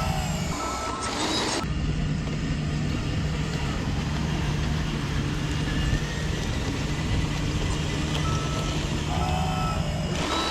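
Radio-controlled model construction trucks running, with a steady low engine-like hum and a faint high beep that comes and goes.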